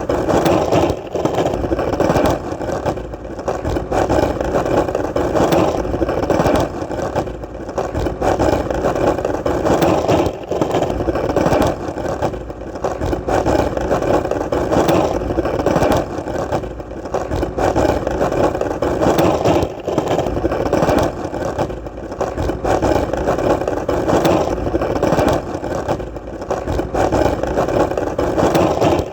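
Skateboard wheels rolling on hard ground: a steady rumble that dips briefly every two seconds or so.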